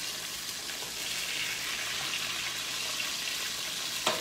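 Boneless chicken thighs sizzling in butter and olive oil in a skillet: a steady frying hiss, with one sharp click near the end.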